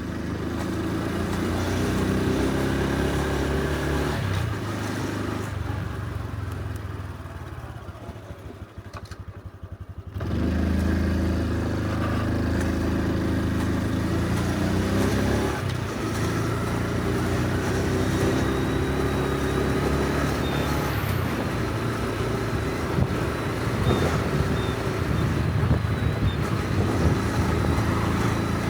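Honda Super Cub C125's single-cylinder engine running on the road, pulling up through the gears with breaks at the shifts. It drops off quieter around eight seconds in, then picks up sharply again about ten seconds in.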